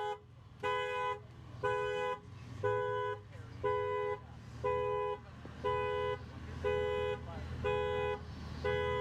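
Car horn sounding a two-note blast about once a second, each blast about half a second long, in the even, unbroken rhythm of a car alarm going off.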